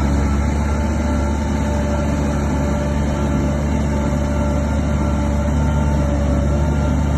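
Heavy diesel construction machinery running steadily: a deep engine rumble with a few steady whining tones above it.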